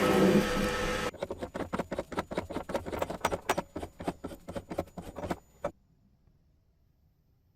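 A loud, dense sound cuts off about a second in. A rapid, irregular string of sharp clicks and taps follows for about four seconds, then stops suddenly.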